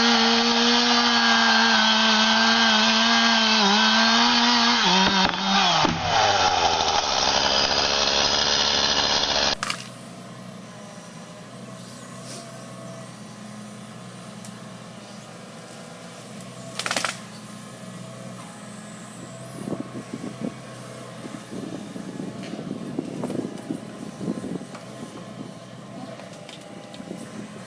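A chainsaw running at high revs, then let off about five seconds in so the engine winds down in pitch. At about ten seconds the sound changes abruptly to a much quieter low steady hum, with a single sharp knock about seventeen seconds in and scattered rustling and knocking near the end.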